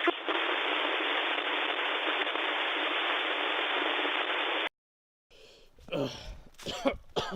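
Steady, hard-edged static hiss, a video-glitch distortion effect, cutting off abruptly after about four and a half seconds into a moment of dead silence. A voice follows near the end.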